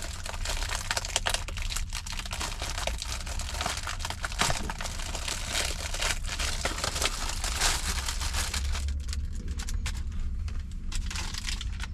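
Plastic bag of salad blend being torn open and crinkled by hand, a dense run of irregular crackles that eases off near the end. A steady low hum runs underneath.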